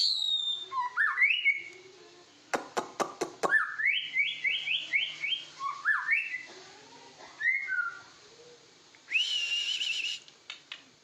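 White-rumped shama (murai) singing loud whistled phrases of notes that glide upward, including a quick run of repeated rising notes. About two and a half seconds in come five sharp clicks in quick succession, and near the end a harsh, buzzy held note.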